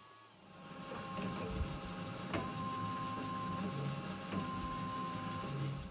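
Milling machine spindle running up and drilling a hole in a small metal connecting-rod blank with a number 15 drill. It starts about half a second in, runs steadily with a thin whine, and stops right at the end.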